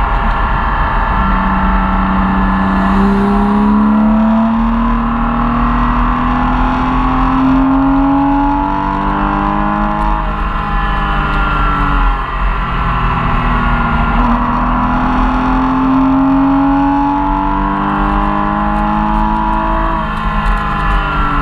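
Porsche Cayman S flat-six engine heard from inside the cabin under sustained throttle, its pitch climbing steadily in a long pull of about nine seconds. It falls back around ten to twelve seconds in, pulls up again, and drops once more near the end.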